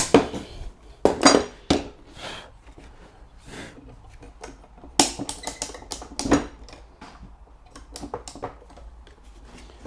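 Scattered knocks and clatters of timber stair parts being handled and fitted together, the loudest about a second in and again around five and six seconds in.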